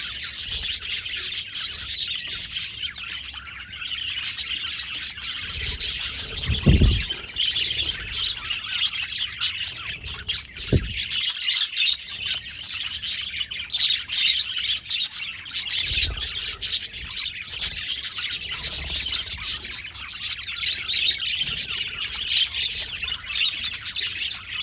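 Budgerigars chirping and warbling continuously, many quick overlapping chirps, with two brief low thuds partway through.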